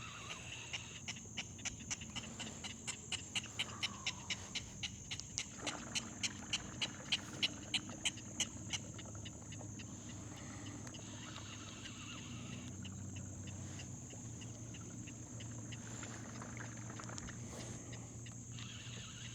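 A fishing reel clicking in an even run of about three clicks a second that grows louder and stops about nine seconds in, while a hooked redfish is being fought. A low steady hum runs underneath.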